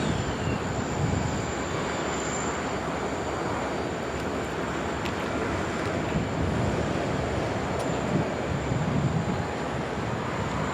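Loaded taconite ore train rolling by, a steady rumble and rush from the cars on the rails.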